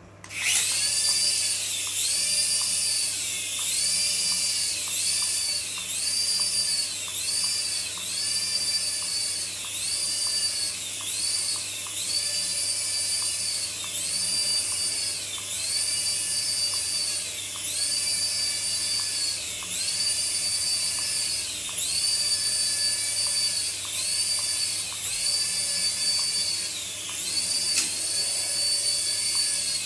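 Small electric motor of a remote-control toy running with a high whine, its pitch sagging briefly and recovering about once a second. The motor starts suddenly at the opening.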